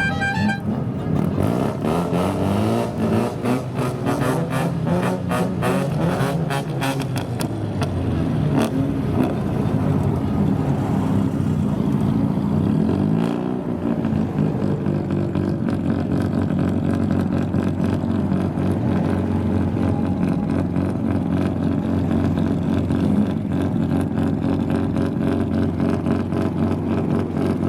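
Car engine revved up and down in long swells several times, then running at a steady, lower speed.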